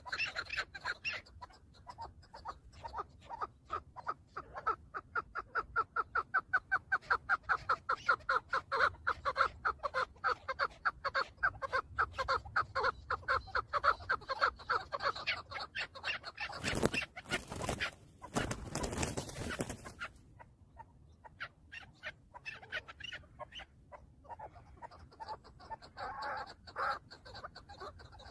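Chukar partridge calling: a long run of rapid clucking notes, about three to four a second, for some ten seconds. A few seconds of rustling noise follow, then a few scattered fainter calls.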